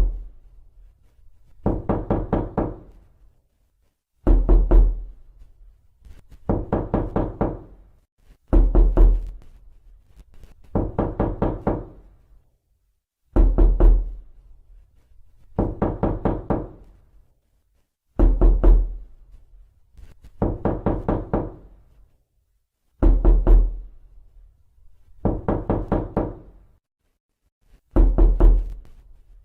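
Knocking on a door: bursts of rapid raps about every two seconds, a short heavy cluster alternating with a longer run of five or six knocks, with silence between the bursts.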